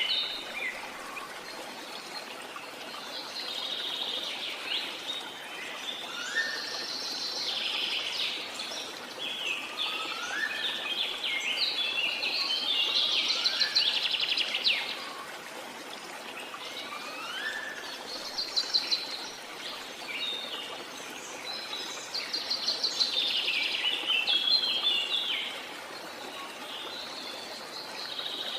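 A chorus of many birds calling and singing over a steady rush of water. Among the trills are several short whistles that sweep upward.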